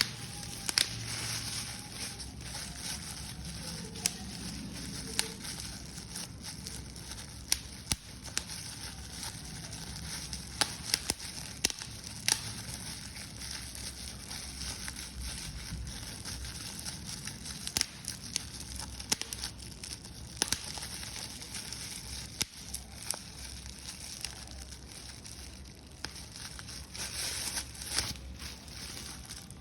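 Paper being crumpled and crushed by hand, a steady crinkling with many sharp irregular crackles.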